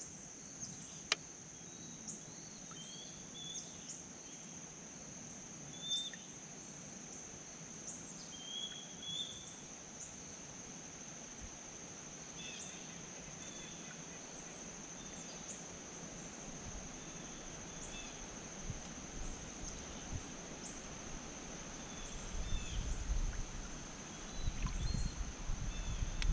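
Insects trilling steadily at one high pitch, with a few short bird chirps in the first ten seconds. Low rumbling noise rises in the last few seconds.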